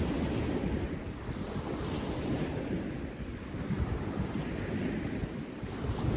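Wind buffeting the microphone outdoors: a steady, gusting rush of noise, heaviest in the low rumble, with no other distinct sound.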